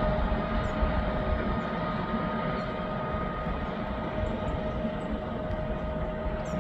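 Regional train of Vivalto double-deck coaches with an E464 electric locomotive at the rear running past: a steady rumble of wheels on rail with a steady whine, fading slightly as it moves away.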